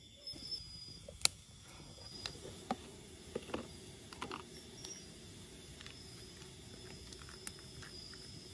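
A handful of short, irregular knocks and clicks, the sharpest about a second in and most of them over the next few seconds, over a faint steady high insect buzz.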